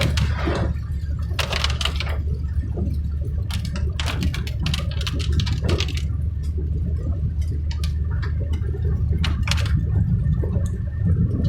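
Vehicle driving on a rain-soaked, waterlogged road: a steady low rumble of the road and engine, broken by irregular splashes and hisses of water thrown up by the tyres.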